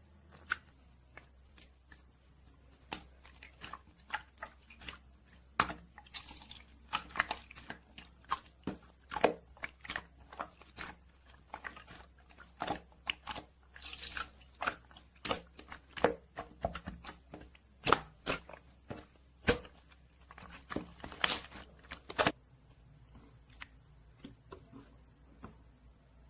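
Jelly slime being squeezed and pressed by hand, making many sharp, irregular clicks and pops that stop about 22 seconds in.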